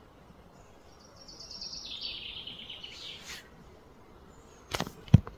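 A bird sings a rapid trill that steps down in pitch, starting about a second in and lasting about two seconds. Near the end come two sharp knocks, the second the loudest.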